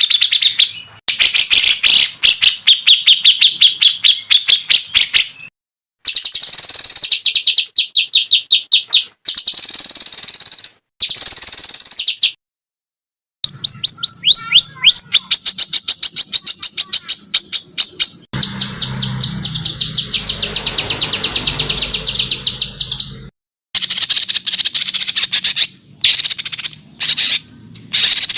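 Songbird song for masteran training: fast, loud runs of repeated high chirps and rattling trills, including a long buzzy trill near the middle. The runs come in segments a few seconds long that cut off abruptly, with short silences between them.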